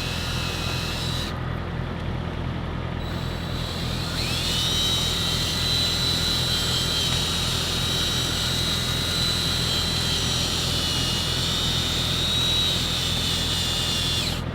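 Drill spinning an 800-grit hook-and-loop sanding pad on a plastic headlight lens during wet sanding: a steady high whine that drops out briefly and rises back as the drill speeds up again about four seconds in, over a steady low hum.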